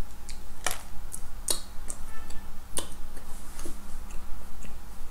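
A person biting and chewing a soft iced Krispy Kreme doughnut close to the microphone: a string of short, wet mouth clicks and smacks, about two or three a second at first and then sparser.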